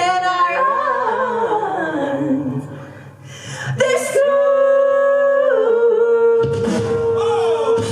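A high solo singing voice with accompaniment: a falling run of notes, then a long held note that steps down once and is held to the end. The accompaniment drops out about six and a half seconds in, leaving the voice alone.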